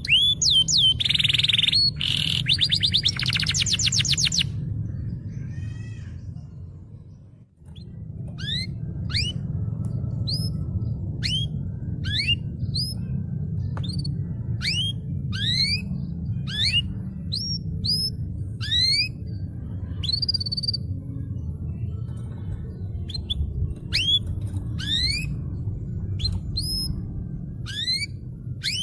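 Canary song: dense, rapid trilled rolls for the first few seconds, fading away, then after a short break a long series of separate quick rising chirps, one or two a second, over a steady low hum.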